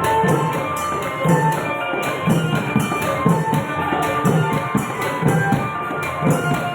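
Thai klong yao long-drum ensemble playing: a steady beat with a deep drum stroke about once a second, lighter strokes between, cymbal clashes, and a melodic line over it.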